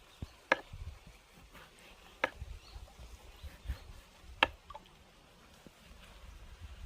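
Three sharp clicks or knocks, about two seconds apart, the last the loudest, over faint low rumbling.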